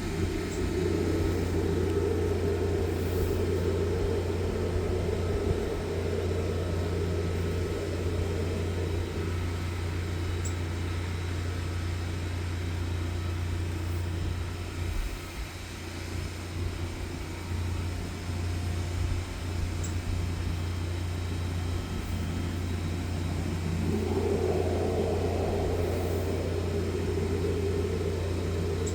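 High-pressure sewer jetter running steadily with a constant low engine hum. A louder, rougher layer of pump and water noise runs for the first several seconds, eases off, and returns near the end.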